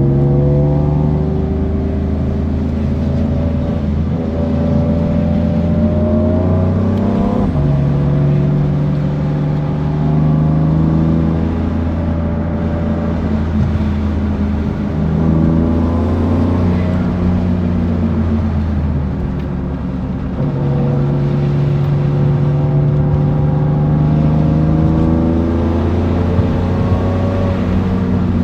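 BMW F82 M4's twin-turbo inline-six under hard acceleration, pitch climbing through each gear and dropping back at the shifts, several times over.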